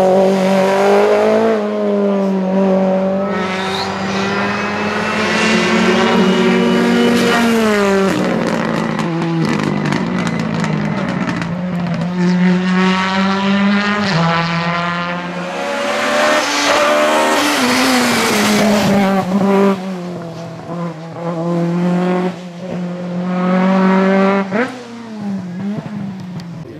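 Rally cars at full attack, engines revving hard and climbing in pitch, then dropping sharply at each gear change and lift, as one car after another goes by at speed.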